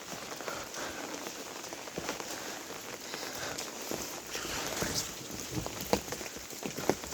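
Monsoon rain falling steadily, an even patter with scattered sharper drops and taps that grow denser and louder near the end.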